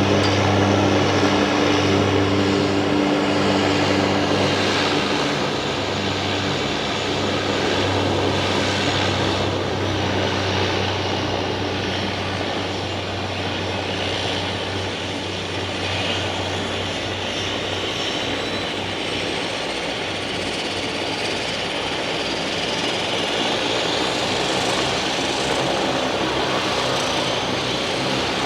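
A floatplane's propeller engine running steadily. Its low engine hum is strongest at first and fades out about two-thirds of the way through, leaving a broad rushing noise.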